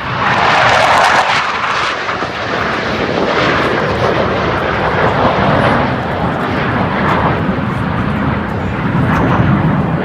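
Blue Angels F/A-18 jets passing overhead: loud jet engine noise that swells in the first second, stays loud, and grows deeper toward the end.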